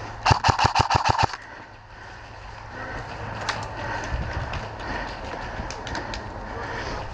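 Electric airsoft gun firing a short full-auto burst, about nine shots in a second, just after the start, followed by scattered single shots further off.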